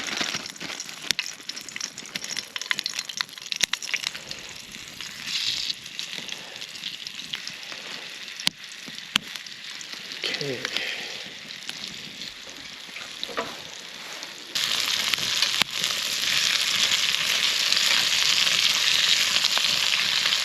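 Coated chicken pieces deep-frying in hot oil in a pan, a steady sizzle with scattered crackling pops. About two-thirds of the way through the sizzle suddenly becomes louder and denser.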